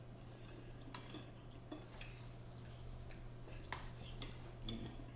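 A few faint, sharp clicks and taps of eating at a table, utensils and dishes, spaced irregularly over a steady low hum.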